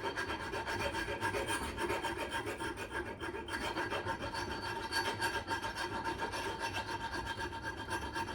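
Hand scrubbing of a rusty steel axe head with an abrasive, in quick, even back-and-forth strokes about four a second, as the rust and tarnish come off.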